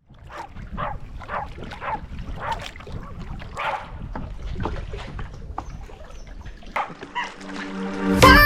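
Jack Russell terrier whining and yelping in short repeated cries, about two a second. Background music comes in near the end.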